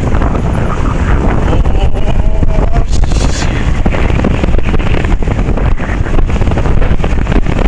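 Heavy wind buffeting the microphone of a moving Honda 750 motorcycle, a loud, constantly fluttering rush with the bike's running underneath it.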